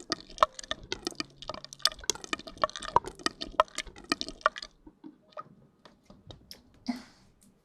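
Close-miked wet clicking and squishing sounds, quick and dense for the first four to five seconds, then thinning to a few scattered clicks.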